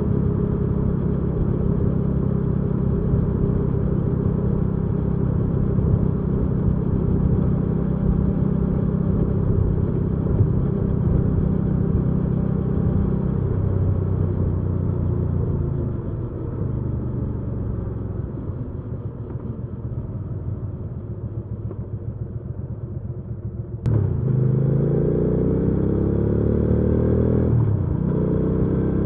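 Hyosung GV300S Aquila 300's V-twin engine heard from the saddle while riding. It runs steadily, then eases off and drops to a lower, quieter note for several seconds. About 24 seconds in it picks up sharply and revs up through a gear, with a brief dip for a gear change shortly before the end.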